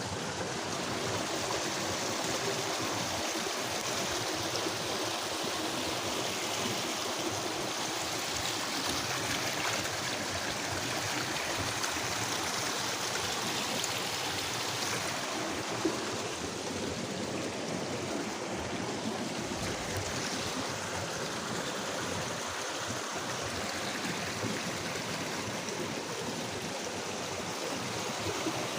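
Steady rush of running water, an even noise that holds constant throughout.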